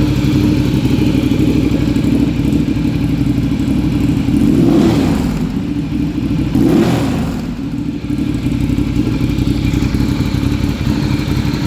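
2015 Ducati Diavel's 1198 cc Testastretta L-twin idling, with two short throttle blips about five and seven seconds in, each rising and falling back to idle.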